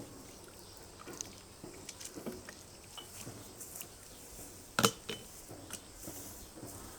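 Scattered light taps and clicks of objects being handled, with one sharp knock about five seconds in.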